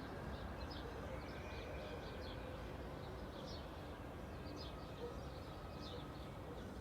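Small birds chirping in short, high notes every second or so over a steady low hum of distant traffic.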